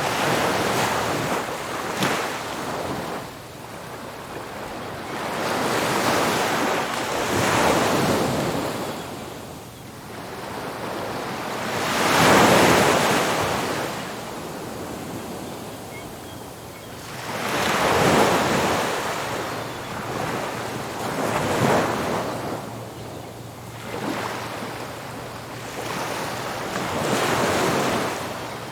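Ocean surf, waves breaking on a beach one after another, each rising into a rush of noise and fading; the biggest breaks come a little under halfway through and again about two-thirds of the way in. Wind on the microphone runs under the surf.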